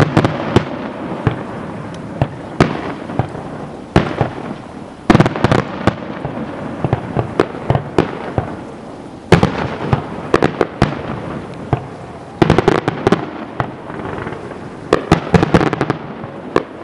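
Fireworks going off: many sharp bangs and crackles in quick clusters, several volleys a few seconds apart, over a steady rumble.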